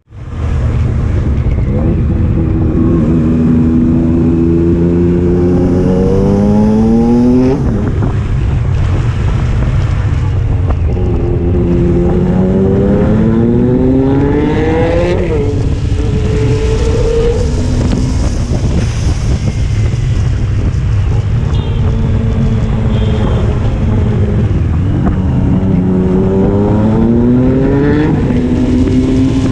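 Triumph Street Triple's inline-three engine pulling hard through the gears. Its exhaust note climbs steeply and drops sharply at each upshift, with three long pulls and a steadier cruising stretch between them.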